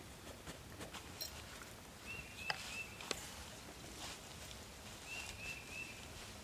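An animal's short, high chirping calls in two runs of three or four notes, with scattered light clicks and snaps around it.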